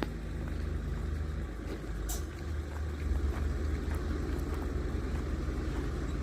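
Car driving along a road: a steady low engine and road drone.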